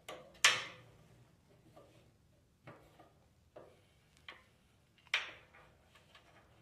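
Scattered clicks and light knocks of heater parts and tools being handled during the repair, the loudest about half a second in and another about five seconds in, with smaller ticks between.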